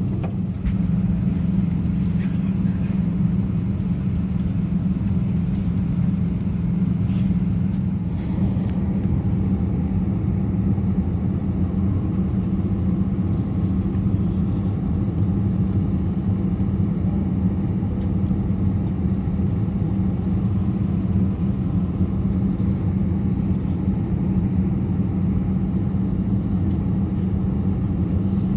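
Steady low cabin hum of a parked Airbus A320's air-conditioning and ventilation, with a strong constant tone underneath, and a few faint clicks.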